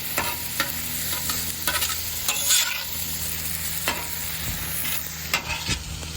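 Chicken fried rice sizzling on a Blackstone flat-top griddle's steel cooking surface as it is being mixed, with irregular scrapes and clacks from a spatula every half second to a second or so over the steady hiss.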